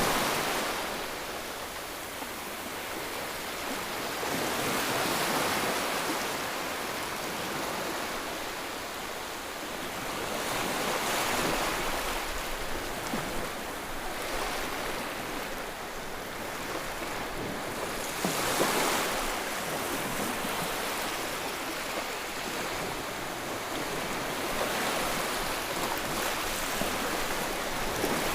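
Continuous white noise for soothing a baby, a rushing hiss across all pitches that swells and ebbs every six or seven seconds like surf.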